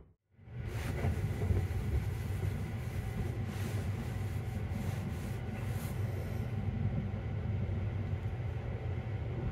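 Steady running rumble of the Sunrise Izumo sleeper train, a 285 series electric train, heard from inside the carriage as it travels. It fades in about half a second in, after a brief silence.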